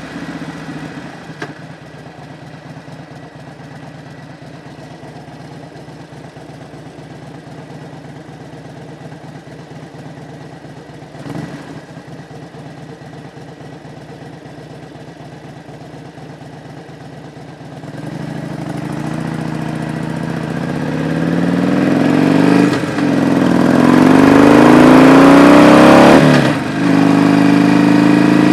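Harley-Davidson Road Glide's air-cooled 45-degree V-twin running at low revs. About two-thirds of the way in it pulls away hard, the revs climbing and getting much louder, and the sound dips briefly twice as it shifts up through the gears.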